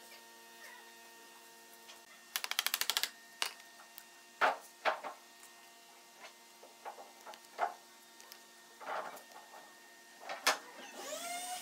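Hand-work sounds: about two seconds in, a quick rattling run of clicks from a tape measure blade retracting. Then scattered knocks and scrapes of a steel putty knife working wood glue in a plastic tub, over a faint steady hum. A steady pitched tone begins near the end.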